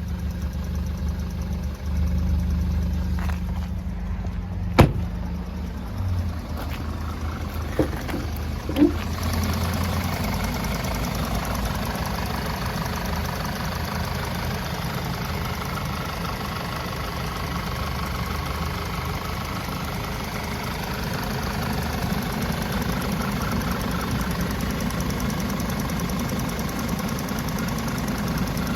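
Audi A4 B8's turbocharged 2.0 TFSI four-cylinder engine idling steadily on a test run. There is a sharp click about five seconds in and two short clicks near nine seconds, after which the running sound gets fuller.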